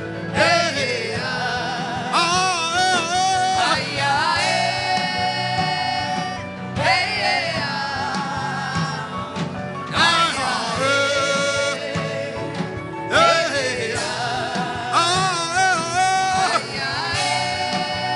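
Worship music: a voice singing long, wavering phrases, with no words picked out, over a steady instrumental accompaniment.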